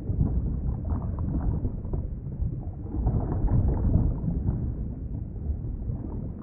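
Underwater ambience: a muffled, low rumble of moving water that swells and ebbs irregularly, with no high sounds.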